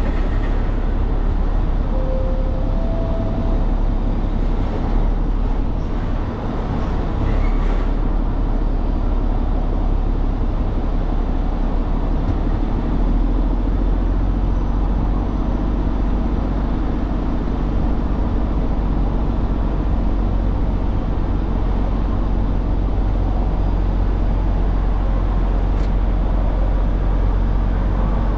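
Heavy truck running on the road: a steady low rumble of diesel engine and road noise, with two short faint tones about two seconds in.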